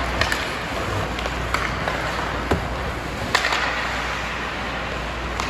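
Ice hockey in play: sharp clacks of sticks and puck and skates scraping the ice over steady rink noise, the loudest knock about three seconds in.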